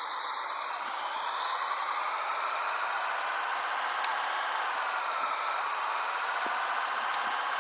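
Scania 112HT truck running, heard as a steady hissing rush with a faint whine that drifts slowly up and down in pitch.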